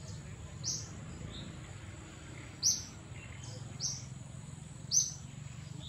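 A bird repeating a short, high call every one to two seconds, the loudest three under a second in, midway and near the end, over a steady thin high tone in the background.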